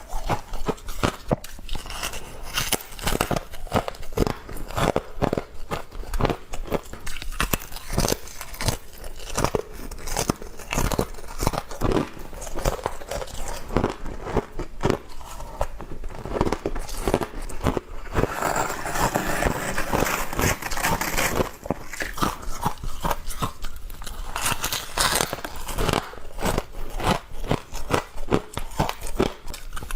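A person biting and chewing frost close to the microphone: a dense, irregular run of crisp crunches and crackles.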